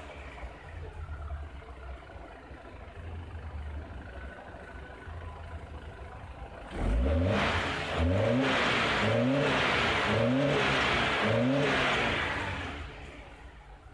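2007 BMW X3 engine idling, then revved five times in quick succession, each rev a rising sweep about a second apart, dropping back toward idle near the end. The throttle answers the pedal normally, with the engine warm.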